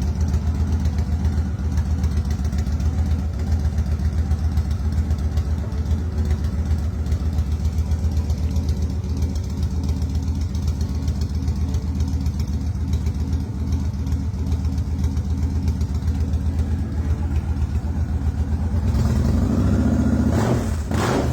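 2006 Big Dog K9 chopper's V-twin engine idling with a steady pulsing beat, then revved up near the end.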